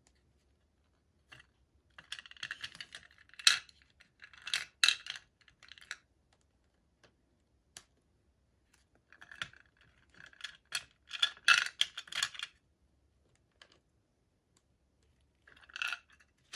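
Small plastic pieces and packaging being handled: bursts of crisp clicking, tapping and crinkling in three spells, the longest in the middle, with short pauses between.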